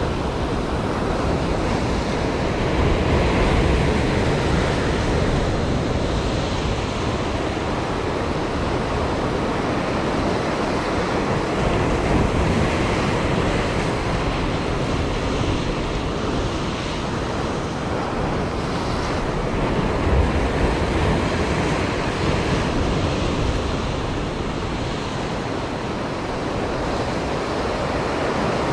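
Sea surf washing against a concrete breakwater: a steady rushing that swells every several seconds, with wind buffeting the microphone.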